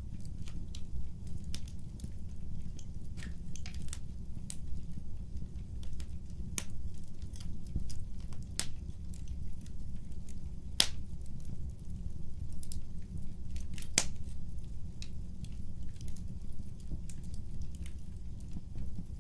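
Wood fire burning with a steady low rumble of flames and irregular sharp crackles and pops from the burning logs, two louder pops about eleven and fourteen seconds in.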